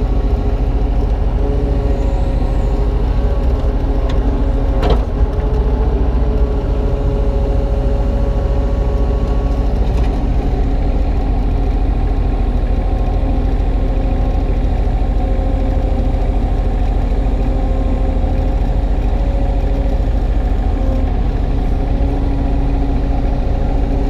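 Kubota U35-3 mini excavator's diesel engine running steadily under hydraulic load while the bucket digs a trench layer by layer, with a single sharp knock about five seconds in.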